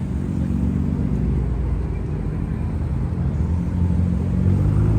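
A car engine running close by: a low, steady drone that gets a little louder near the end.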